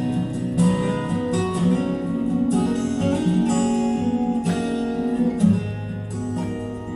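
Instrumental music led by a plucked acoustic guitar, with no singing.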